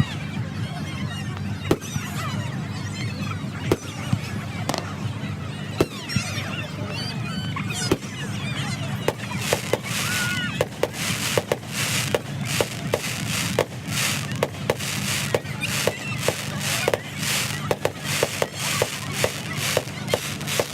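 Fireworks going off: single sharp bangs about a second apart, then from about halfway through a dense run of rapid crackling bangs, several a second. Wavering high squealing tones are heard through the first half.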